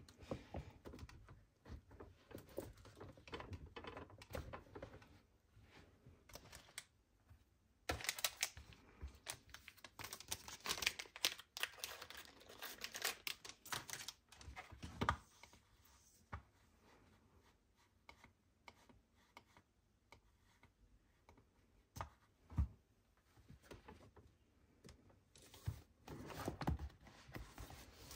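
Typing on a wireless computer keyboard: irregular runs of quiet key clicks, busiest in the middle stretch and again near the end, with sparser tapping between.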